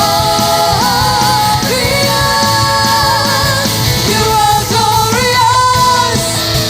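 Live worship band playing a rock-style song, with sustained sung notes over a steady beat.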